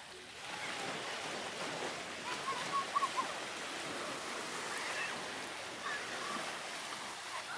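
Black Sea surf washing onto the beach in a steady rush, with a few faint short high sounds about two to three seconds in and again near five seconds.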